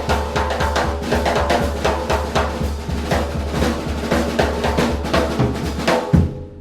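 Fast swing-jazz drum kit playing a break, with snare, bass drum and cymbals and a drum roll, for Balboa dancing, ending on a strong accent about six seconds in.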